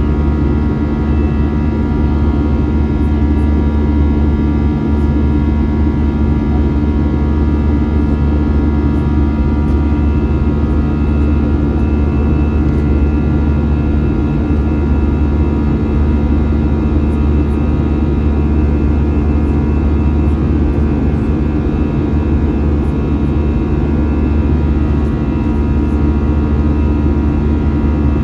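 Steady drone of an Airbus A321's jet engines heard inside the cabin: a constant low rumble with a fixed whine of several tones above it.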